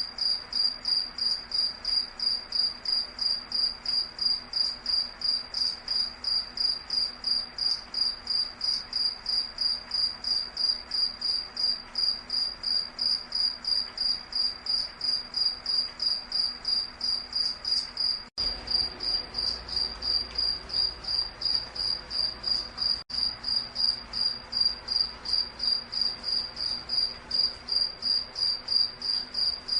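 Cricket chirping steadily, a high-pitched pulsing trill repeating about three times a second.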